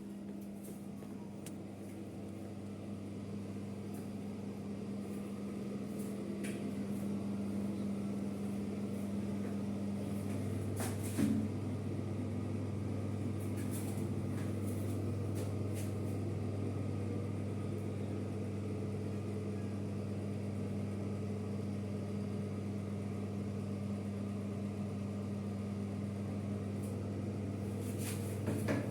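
Steady electric appliance hum with a deep low drone, swelling slowly at first and then holding level, with a sharp click about a third of the way in and another near the end.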